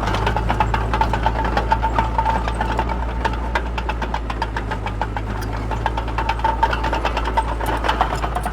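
Engine of a heavy earthmoving machine running steadily, with a rapid metallic rattling clatter over a low hum.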